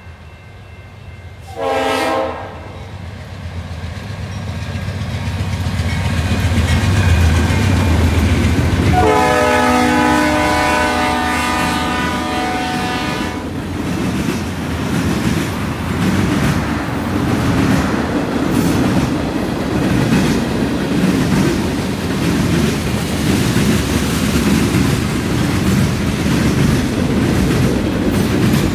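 Freight train passing: the CN 2182 locomotive's horn gives a short blast about two seconds in, then a long blast of about four seconds, over the rising rumble of the diesel engine. After that comes the steady rolling noise and clickety-clack of tank cars and covered hoppers going by.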